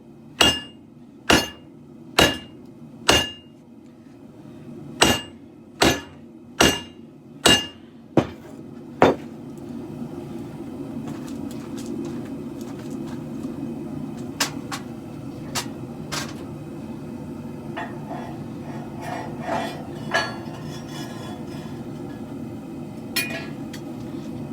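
Forging hammer striking hot steel on an anvil, ringing blows about a second apart in two runs, stopping about nine seconds in. After that a steady low rushing noise remains, with a few scattered light clinks.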